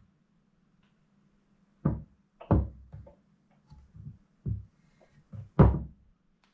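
A string of irregular knocks and clunks, about eight in a few seconds, the loudest one about five and a half seconds in, consistent with tools or engine parts being handled and set down during engine reassembly.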